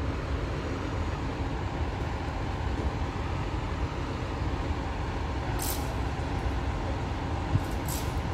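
Freight train of coal wagons rolling past with a steady low rumble, and two short hissing bursts near the end.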